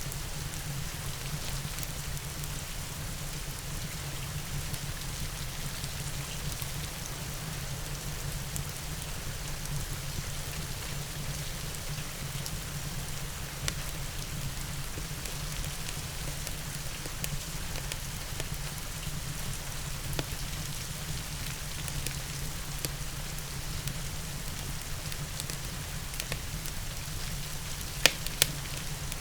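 Steady rain with a low rumble under it and scattered faint crackles from a fireplace. Two sharp pops stand out near the end.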